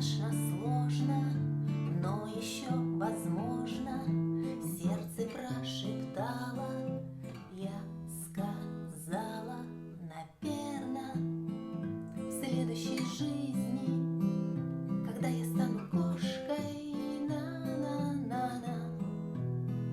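Acoustic guitar strummed, playing the song's chord accompaniment, with a brief break about halfway through.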